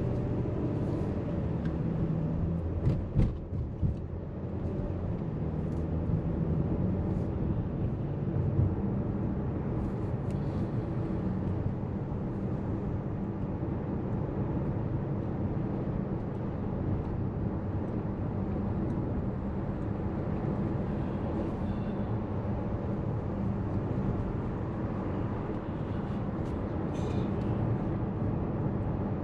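Car running on the road, a steady low engine and road rumble heard from inside the cabin, with a few sharp clicks about three seconds in.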